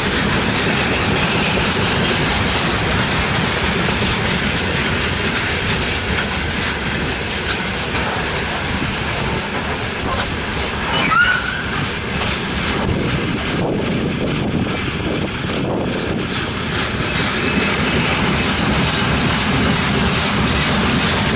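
Freight train of gondola cars rolling past: a steady rumble of steel wheels on rail with some clatter over the rail joints, and a short rising wheel squeal about eleven seconds in.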